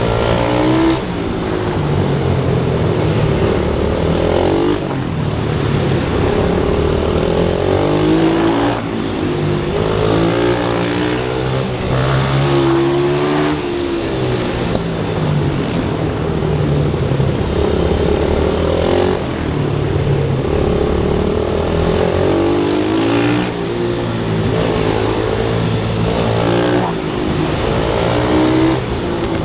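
Small pit bike motorcycle engine being ridden hard around a track. Its pitch climbs as it accelerates, then drops with short breaks as it shifts or rolls off for corners, over and over every few seconds.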